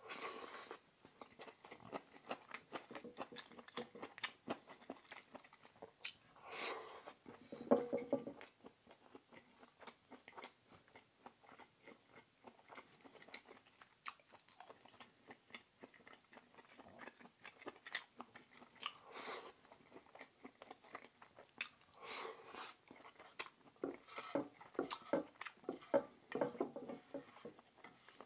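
A person chewing and biting food close to the microphone, with many small wet mouth clicks and a few louder puffs of noise scattered through.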